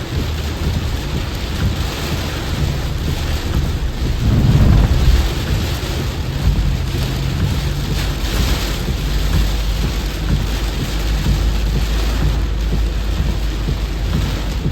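Heavy rain pouring down with a steady hiss and a low rumble underneath, which swells briefly about four seconds in.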